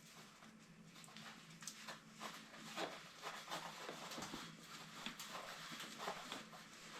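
Faint scattered rustling and light taps, like hands shifting and handling pipe and tools, over a faint steady hum.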